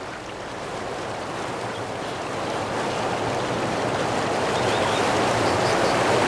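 Rushing, splashing water of a turbulent mountain stream, a steady noise that grows steadily louder.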